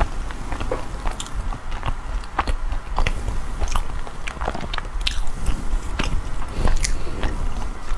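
Close-up eating sounds: soft matcha bread being chewed, with irregular small clicks throughout, and the bread being pulled apart by hand.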